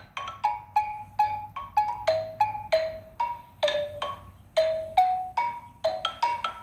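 Xylophone played with mallets: single struck notes about three a second, each ringing briefly, stepping up and down in a simple melody within a narrow range.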